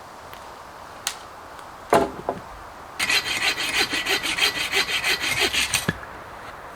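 A hand saw cutting through wood in quick back-and-forth strokes, about three a second, lasting about three seconds from midway. It is preceded by a sharp knock, like wood being set down or struck, about two seconds in.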